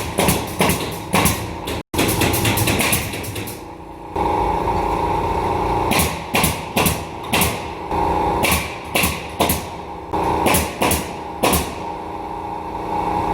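Pneumatic nail gun firing a quick run of sharp shots, a few every second, over a steady hum.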